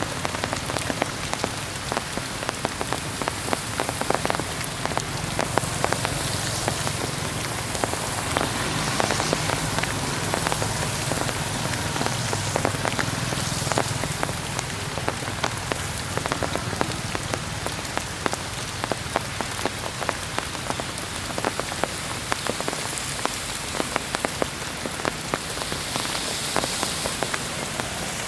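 Heavy rain falling steadily, a dense hiss with many individual drops pattering on surfaces.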